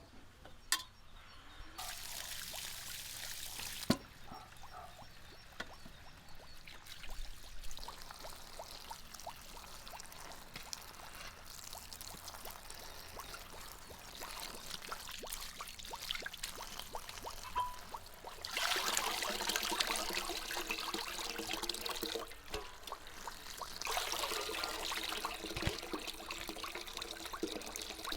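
Water pouring and trickling in several spells, strongest in the last third, with a few small clicks in between.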